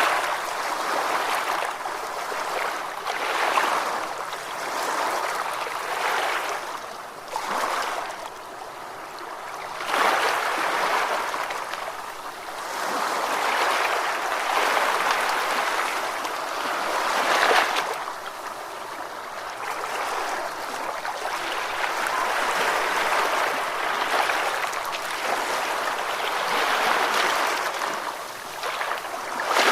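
Ocean waves washing ashore, a continuous hiss of surf that swells and falls back every few seconds as each wave breaks and drains away.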